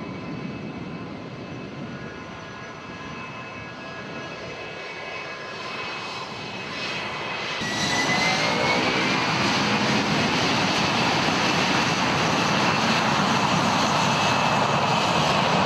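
C-17 Globemaster III's four turbofan engines: a steady jet whine at first, then about halfway the sound jumps much louder into a full jet rush with a rising whine, as the engines go to takeoff power.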